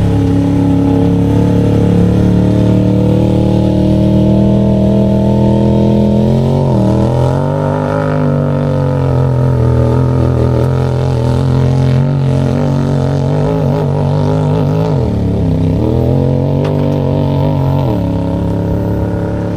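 Off-road vehicle's engine running steadily. Its pitch dips and then recovers three times, as the engine slows and picks up again.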